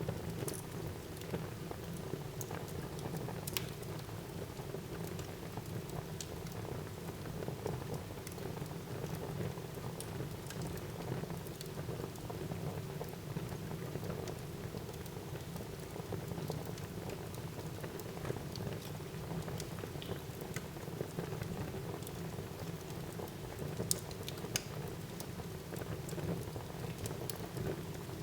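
Wood fire burning in a fireplace: a steady low rush of flame with scattered sharp crackles and pops, two of them louder, early on and near the end.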